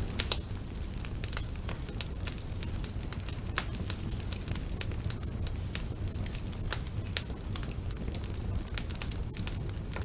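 Wood fire burning in a fireplace, with a steady low rumble of flame and irregular sharp crackles and pops from the burning logs.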